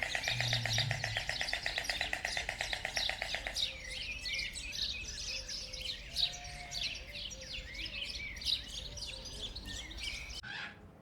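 Birds chirping and calling, opening with a fast rattling trill for about the first three and a half seconds, then many short high chirps.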